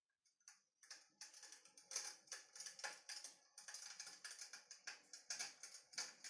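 Electric fireplace's crackling-log sound effect: a dense run of small irregular crackles and pops, starting about half a second in after a moment of silence.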